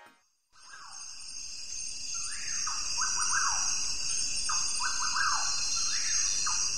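A bird calling in short runs of quick falling whistles, repeated every second or so over a steady high-pitched hiss, fading in about half a second in.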